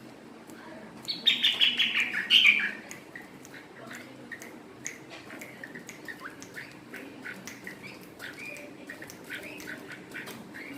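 Birds calling: a loud run of quick squawking notes, each falling in pitch, from about a second in for about a second and a half, then softer scattered chirps.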